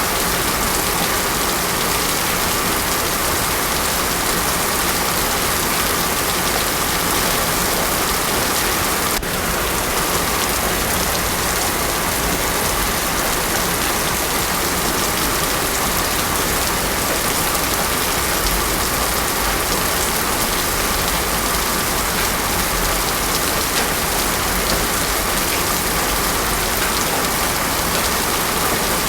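Heavy rain falling steadily, an even hiss with no thunder, with a momentary dip in level about nine seconds in.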